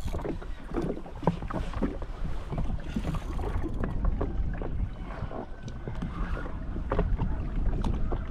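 Wind rumbling on the microphone and water slapping against a drifting jet ski's hull, with scattered small knocks and clicks.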